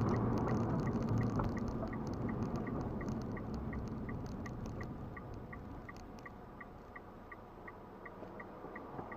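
Car driving, heard from inside the cabin: a steady engine and road noise that slowly fades, with a faint, regular tick about twice a second.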